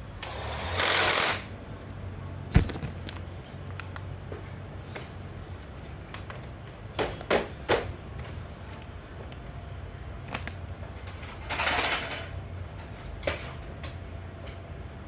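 Two short hissing sprays, each about a second long: one near the start and one about eleven seconds later. Between them come a sharp knock and a few clicks of handling, over a low steady hum.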